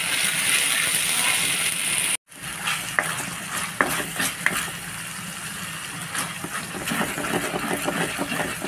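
Onion and spice masala sizzling in a non-stick pan as a wooden spatula stirs it. After a cut about two seconds in, the sizzle is quieter and the spatula scrapes and clicks against the pan.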